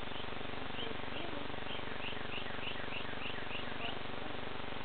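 A small bird chirping: a run of short, evenly repeated notes, about three a second, over a steady background hiss.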